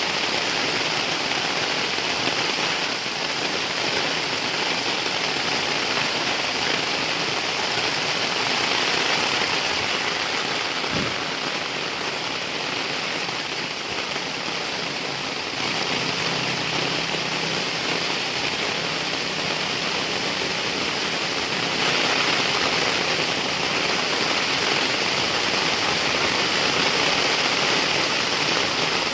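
Heavy rain falling steadily, a dense even hiss, with one brief soft knock about a third of the way through.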